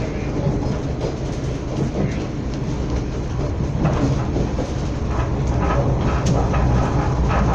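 Srbija Voz passenger train running on the rails, heard from inside the carriage: a steady low rumble with wheel and track noise.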